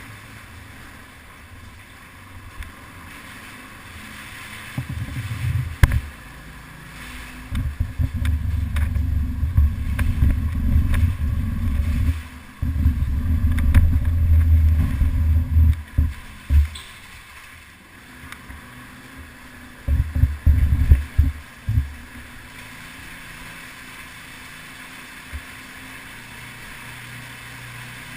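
Yamaha TT-R250 dirt bike's single-cylinder four-stroke engine running, rising into loud, low rumbling surges from about five to sixteen seconds in and again briefly around twenty seconds, then dropping back to a steady lower note.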